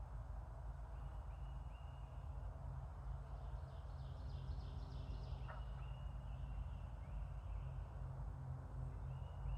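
Outdoor ambience of birds calling: a short call repeated in quick groups of about three, and a rapid rattling call about four seconds in, over a steady low rumble.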